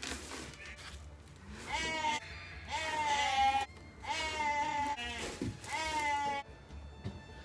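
Newly weaned lambs bleating: four long, quavering calls in a row, each about a second long. They are calling after being separated from their mother overnight.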